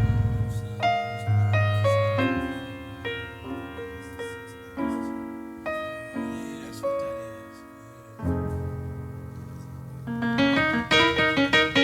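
Piano music: a slow melody of single ringing notes, growing into a busier run of notes near the end.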